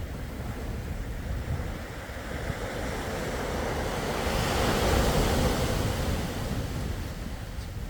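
Sea waves breaking and washing on the shore, one wave swelling to a peak about halfway through and then fading back, with wind rumbling on the microphone.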